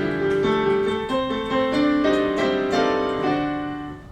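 Piano playing a short accompaniment passage, chords and a moving line stepping from note to note, fading slightly near the end.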